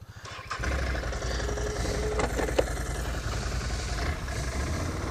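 Can-Am ATV engine idling, then growing louder about half a second in and running steadily as the machine moves off.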